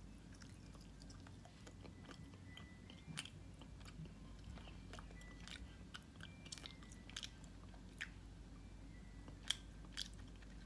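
Faint chewing of a bitten-off piece of spicy mango candy, with scattered small wet mouth clicks.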